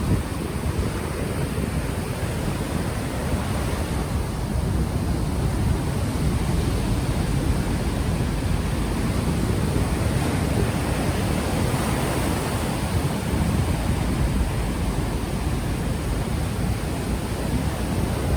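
Ocean waves washing onto the shore in a steady surf, mixed with wind buffeting an unshielded microphone as a low rumble.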